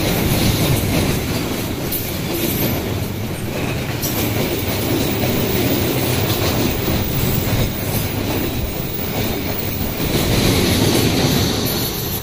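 Freight train wagons rolling past steadily, their wheels clacking over the rail joints.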